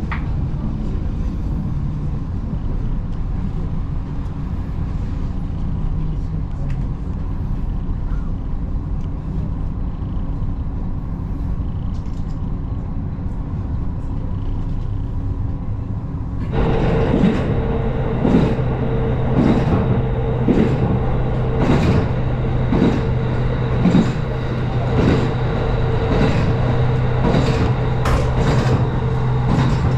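Diesel train running on the track, a steady low rumble. About halfway through it becomes suddenly louder, with a steady engine tone and wheels clicking over rail joints roughly once a second.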